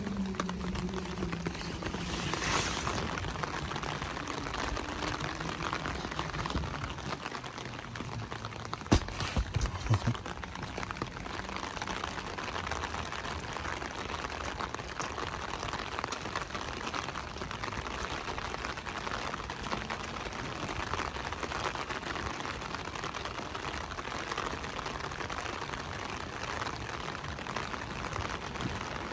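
Steady hiss of light rain falling on a wet street. A low hum fades out over the first few seconds, and a few sharp knocks come about nine and ten seconds in.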